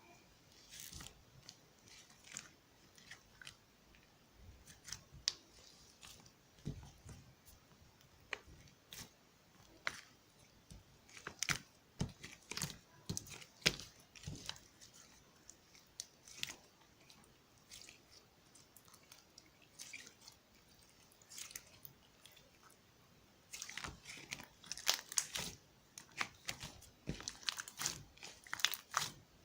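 Toy slime being squeezed and kneaded by hand, giving irregular sticky clicks and small pops that come thicker about halfway through and again near the end.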